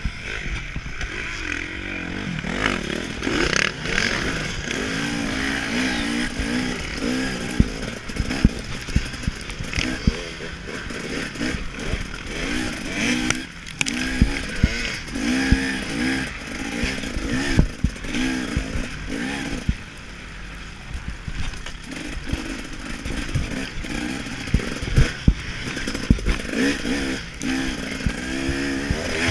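KTM 300 XC-W two-stroke dirt bike engine revving up and falling off again and again as it is ridden hard around a motocross track, heard from the rider's chest mount. Frequent sharp knocks run through it.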